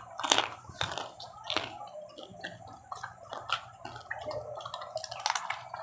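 People biting and chewing crispy fried macaroni chicharon, giving irregular sharp crunches and crackles.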